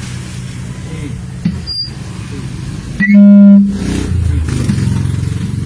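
Hum from a microphone amplified through a speaker, with a loud pitched buzz lasting under a second about three seconds in, then a low buzz. The microphone is being tested for a raspy sound that cuts out when it is moved.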